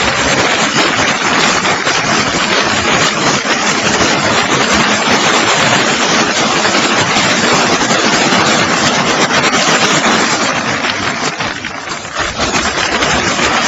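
Tractor engine running loudly and steadily, dipping briefly a little before the end and then picking up again.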